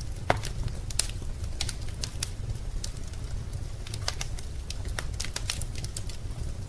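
Fire crackling in a fireplace: irregular sharp pops and snaps over a steady low rumble, with the loudest pop about a third of a second in.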